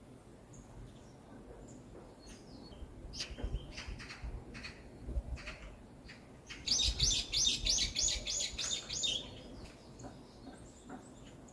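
Forest songbirds calling: scattered short sharp notes, then near the middle one bird's loud, fast series of about nine repeated descending notes, around four a second.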